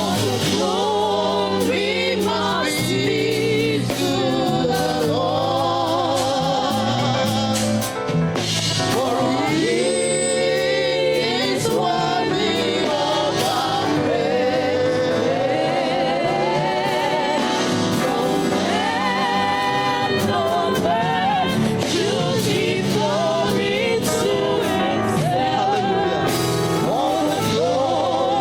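Gospel worship music: singers and a choir singing a praise song with live band backing, a steady bass line underneath.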